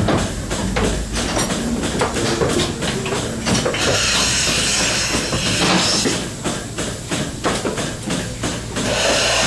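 Milking parlour machinery running: goat milking-machine pulsators clicking in a steady rhythm, with two long stretches of hissing about four seconds in and near the end.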